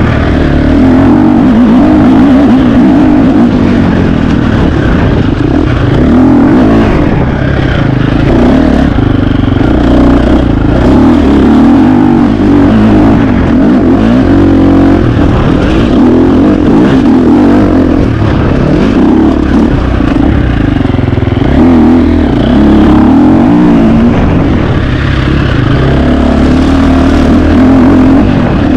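KTM 350 XC-F single-cylinder four-stroke dirt bike engine, revving up and down continuously as it is ridden hard through the test.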